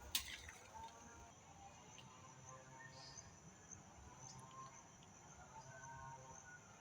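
Near silence: faint outdoor ambience with a few faint short chirps, after a single sharp click right at the start.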